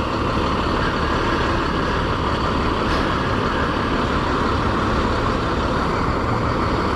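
Hawk 250 motorcycle's single-cylinder engine running at a steady cruise, with steady wind and road noise on the rider's microphone.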